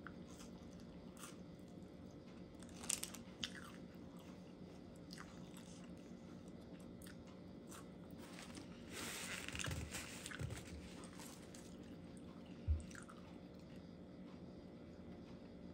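A person chewing and biting into a breakfast sandwich close to the microphone, with small mouth clicks. About nine seconds in comes a brief crackle, likely the paper wrapper shifting as the sandwich is picked up, and near the end a soft thump.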